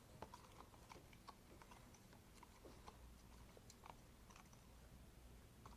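Faint, irregular clicks and ticks of a utensil against a bowl as a glue-and-borax slime mixture is stirred.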